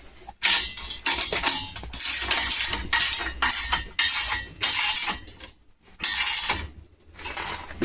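Metal hand tools working on steel hardware: repeated short strokes of metal clinking and scraping, paused briefly twice.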